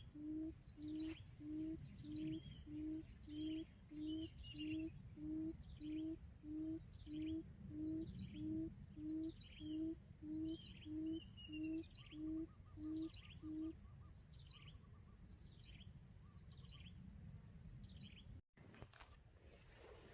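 Lure quail calling: a low hooting note repeated about twice a second, which stops about two-thirds of the way through. Falling chirps come about once a second over a thin, steady high whine, and these stop shortly before the end.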